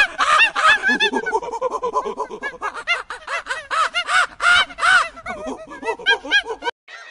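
Rapid, overlapping chattering animal calls, several short arched notes a second, cutting off suddenly near the end.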